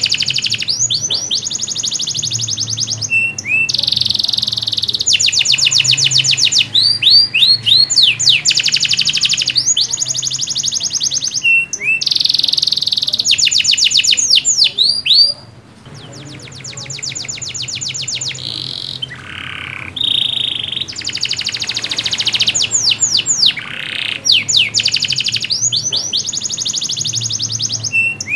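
Domestic canary singing a long, loud song of rapid trills and quick repeated rising and falling notes, going quieter for a few seconds a little past the middle before the full song resumes.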